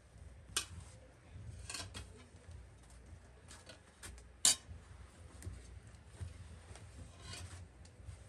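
Scattered short scrapes and clicks of objects being handled, the sharpest about four and a half seconds in, over a steady low hum.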